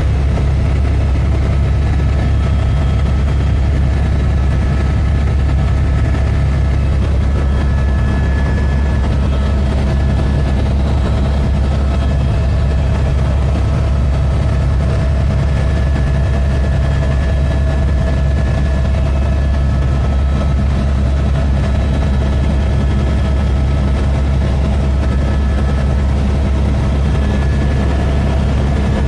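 Helicopter in flight: the steady, loud drone of its engine and rotor, unchanging throughout, with a deep low hum and a few steady higher tones over it.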